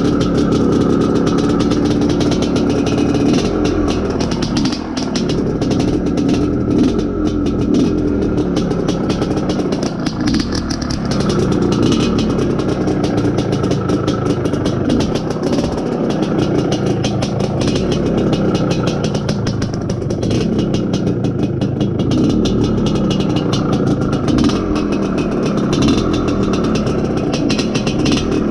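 IZh Planeta Sport's single-cylinder two-stroke engine being run in while the motorcycle is ridden, its pitch rising and falling with the throttle. The rider judges the tune nearly right, with the ignition a little late and the mixture a little rich.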